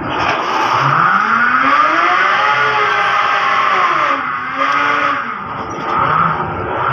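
Rescue-boat davit winch paying out as the boat is lowered: a loud mechanical whine that starts suddenly, rises in pitch, dips about four seconds in, then rises again as the lowering speed changes.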